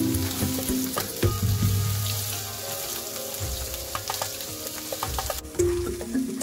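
Paneer cubes sizzling as they fry in hot oil in a nonstick wok, with scraping and light taps from a wooden spatula turning them. The sizzle cuts off suddenly about five seconds in, leaving background music.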